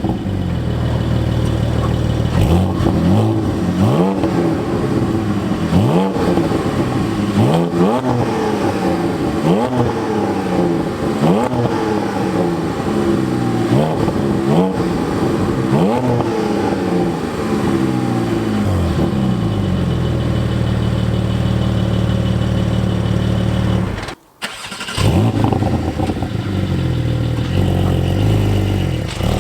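Porsche 718 GT4's naturally aspirated 4.0-litre flat-six revved through its exhaust while stationary: about nine quick throttle blips, one roughly every two seconds, each snapping up and falling back. It then settles to a steady idle, broken once by a brief dropout near the end.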